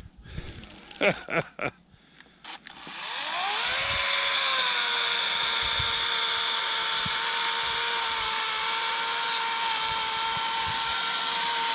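Harbor Freight LYNXX 40V battery chainsaw: a couple of brief trigger pulses, then about three seconds in the electric motor whines up to speed. It runs at a steady pitch as it cuts into a small tree.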